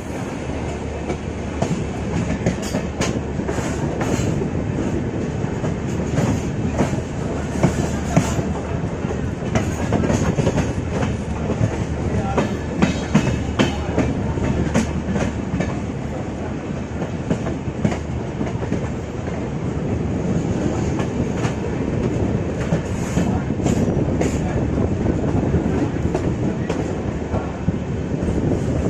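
Passenger express train running, its wheels clattering over rail joints with a steady rumble.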